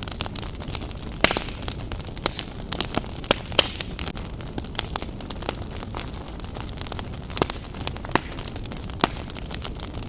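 Wood fire burning in a fireplace: a steady low rumble of flames with irregular sharp crackles and pops of the burning logs, a few louder snaps scattered through.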